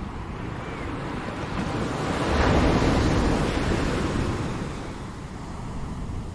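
Ocean surf: a wave swells, breaks about two and a half seconds in, and washes out over the next few seconds, over a steady low rumble.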